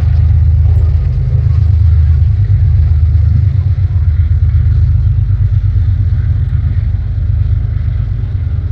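Freight train passing close by: a loud, steady low rumble.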